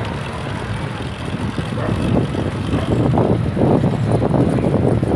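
Wind buffeting the microphone over a steady low rumble while riding a bicycle; the buffeting grows stronger and more crackly about two seconds in.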